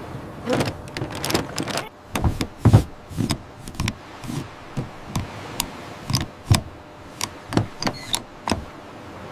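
An irregular series of short clicks and knocks, about one or two a second, with a few heavier low thuds about two to three seconds in.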